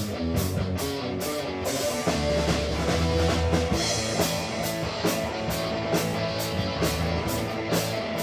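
Live rock band playing an instrumental passage: distorted electric guitar and bass over a drum kit, with cymbals struck about three times a second.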